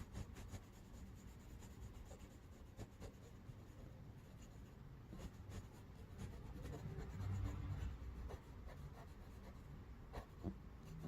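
Cotton swab rubbing chalk pastel onto a paper card: a faint, soft scratching on paper with scattered light ticks and taps.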